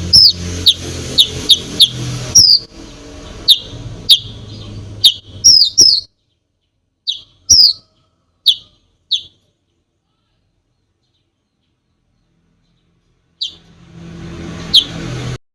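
Olive-backed sunbird (konin) singing a run of sharp, high chirps, each a quick downward sweep. The chirps come thick and fast at first, thin out to a few and stop, then resume with two more near the end before the sound cuts off abruptly. A faint steady hum lies underneath.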